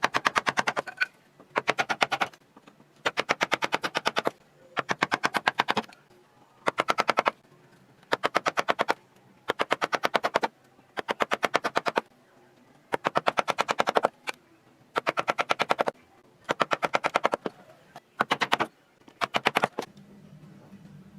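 Carving tool tapping into wood in quick bursts of rapid, even knocks, each burst lasting about a second, with short pauses between them.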